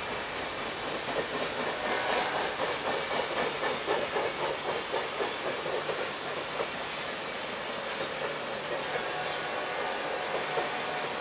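Ringling Bros. circus train cars rolling past: a steady rush and hiss of steel wheels on rail, with a rhythmic clickety-clack of wheels over rail joints that is strongest between about one and seven seconds in.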